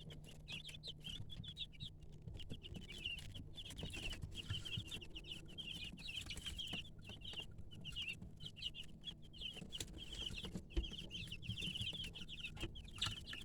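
A group of young chickens peeping continuously, many short high-pitched peeps overlapping, with a few faint taps among them.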